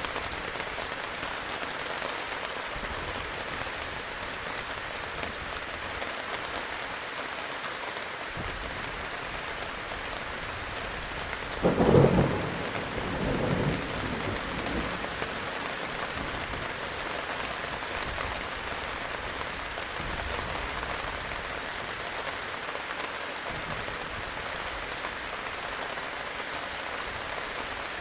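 Steady heavy rain with a single thunderclap about halfway through: a sharp loud crack, then a weaker second peal that dies away within a few seconds.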